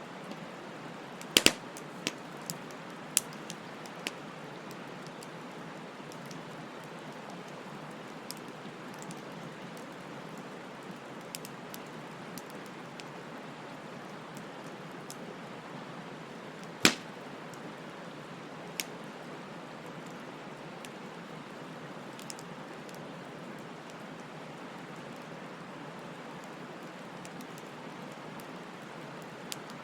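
Bonfire burning: a steady hiss of the flames with scattered sharp crackling pops, a quick run of loud pops about a second and a half in and one loud pop around the middle.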